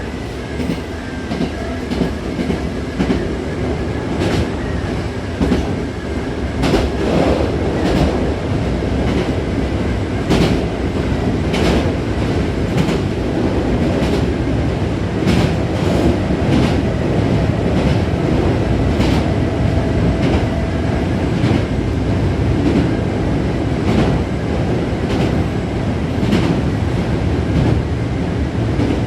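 Hankyu 6000-series electric train running at speed between stations: a steady rumble with the wheels clicking over rail joints, the clicks often coming in close pairs. It grows a little louder about six seconds in.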